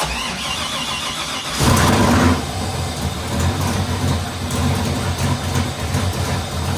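A GM LS3 6.2-litre V8 with an aftermarket cam, freshly installed, is cranked by its starter with a rising whine for about a second and a half. It then fires with a loud flare, the loudest part, and settles into a steady idle.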